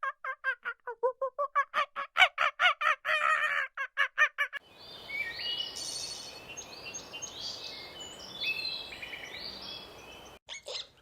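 A bird calling in a fast run of repeated notes, about five a second, for the first four and a half seconds. Then an abrupt change to several birds chirping high over a steady hiss, which cuts off near the end.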